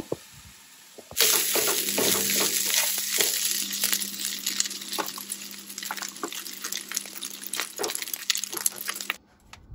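Rice, kale and sausage stir-fry sizzling in a nonstick frying pan on a camp stove, with a spatula stirring and scraping through it in many small clicks. The sizzle starts suddenly about a second in and cuts off just before the end.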